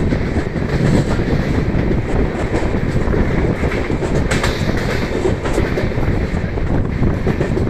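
Express passenger train running at high speed: a steady, loud rumble of wheels on rail with occasional sharp clicks as the wheels pass over rail joints.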